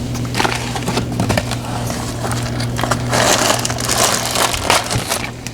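A plastic bag crinkles and rustles irregularly as it is handled, loudest about three to four seconds in. Under it runs the steady low hum of the air fryer preheating.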